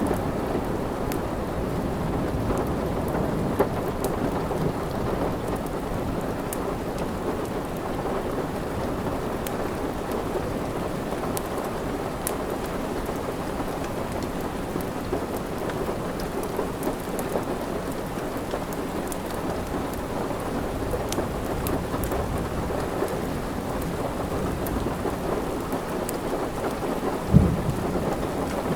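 Steady heavy rain with a low rumble beneath it, dotted with faint sharp crackles from a wood fire in a fireplace. A single sharp knock stands out near the end.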